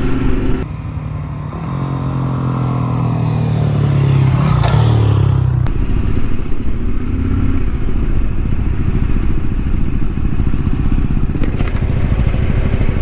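Yamaha Ténéré 700 parallel-twin motorcycle engine running while ridden, heard from the handlebar-mounted camera. For about the first five seconds the engine note is clear and even. It then gives way to a lower, rougher rumble mixed with road noise as the bike rolls along slowly.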